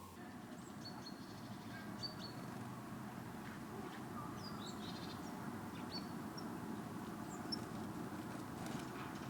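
Small birds chirping and calling with short, high notes scattered throughout, over a steady low outdoor background noise.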